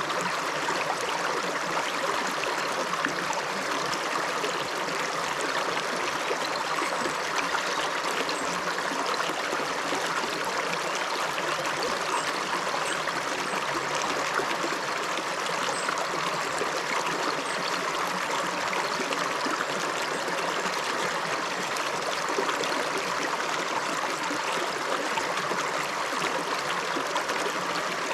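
A shallow river flowing steadily over stones, a continuous rushing and babbling of water.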